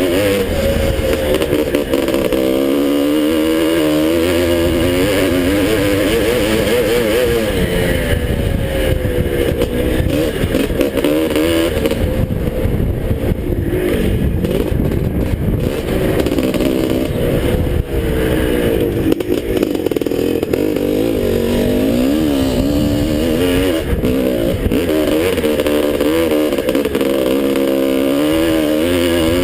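Two-stroke dirt bike engine, a 1981 Husqvarna 430, running hard throughout, its pitch repeatedly climbing and dropping as the throttle is opened and closed around the track.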